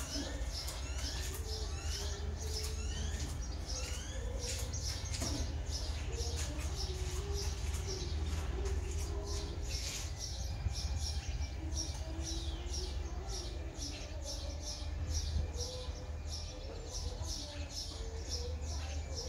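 Small birds chirping over and over, a few short high chirps a second with some quick rising calls in the first few seconds, over a steady low rumble.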